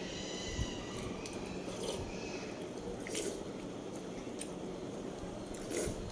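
Wet chewing and smacking mouth sounds of someone eating close to the microphone, with a few sharp clicks. A brief high-pitched tone sounds in the first second.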